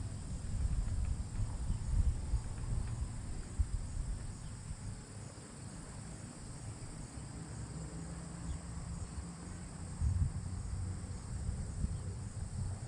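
Wind buffeting the microphone in uneven gusts, with a steady, faint, high insect chorus behind it.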